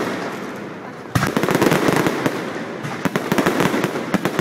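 Fireworks crackling: a sharp burst about a second in sets off a dense run of crackle that slowly fades, with another surge of crackling about three seconds in.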